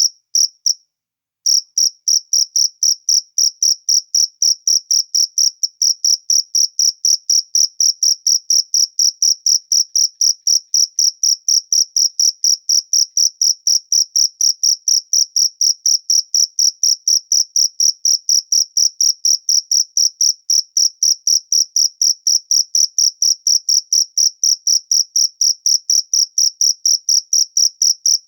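A cricket chirping in a fast, even rhythm of high chirps, about three a second, broken by a silence of about a second shortly after the start.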